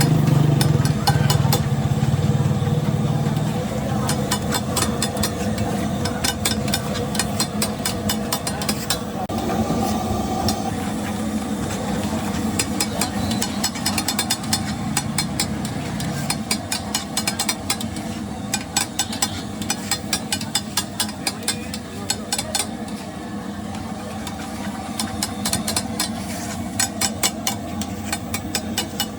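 Rapid, continual clicking and clanking of metal, typical of a spatula working on a flat iron griddle, over a steady engine and traffic hum. An engine is loudest in the first few seconds.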